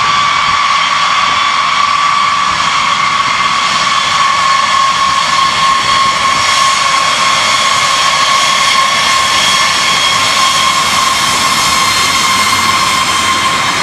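Jet aircraft engine running with a rushing roar and a strong steady whine; the whine sags slightly in pitch past the middle and climbs back near the end.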